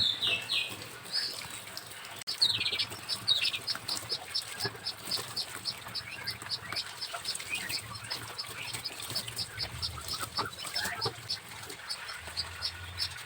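A small songbird calling: a few high, downward-sweeping calls, then a fast, even series of short high chirps, about three a second.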